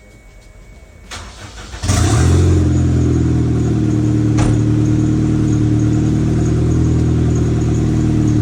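Honda K-series inline-four engine in a Toyota MR2 starting about two seconds in and then idling steadily.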